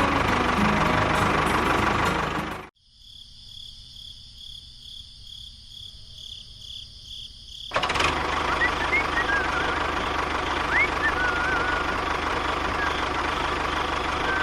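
A small motor running, cut off abruptly about two and a half seconds in. A repeating high electronic beep follows for about five seconds, then the motor noise returns suddenly with a few short rising chirps over it.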